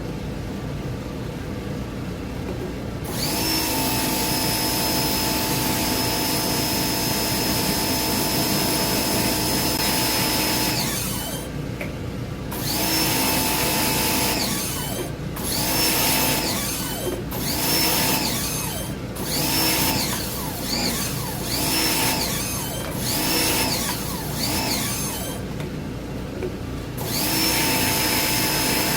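Electric power-tool motor whining: a long steady run, then a string of short bursts about once a second that spin up and wind down, then a steady run again near the end, over a constant low rumble.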